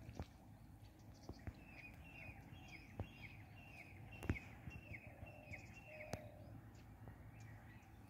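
A bird calling a quick series of short, falling chirps, about three a second, starting about two seconds in and stopping about six seconds in. A few soft clicks and knocks sound over it, the loudest about halfway through.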